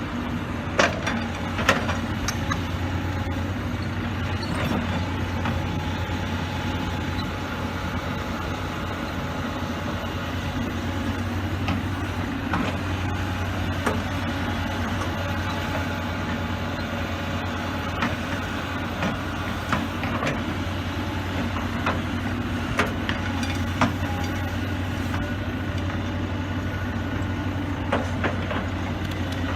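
Kobelco 235SR hydraulic excavator's diesel engine running steadily as the machine works, with scattered sharp knocks every few seconds.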